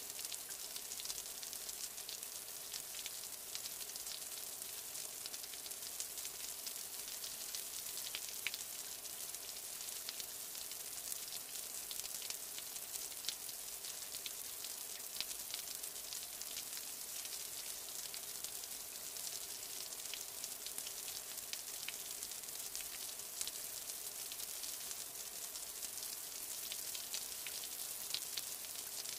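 Steady rain: a dense, even hiss with many small drop ticks.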